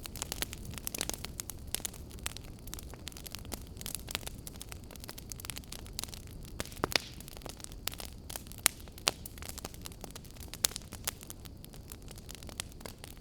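Wood fire crackling in a fireplace: irregular sharp pops and snaps, several a second, over a steady low hiss and rumble of the burning, with a few louder snaps around the middle.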